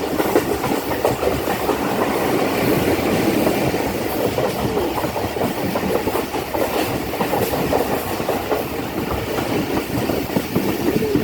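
Passenger train running along the track, its wheels clicking and clattering over the rail joints amid a steady rumble and rattle of the coach.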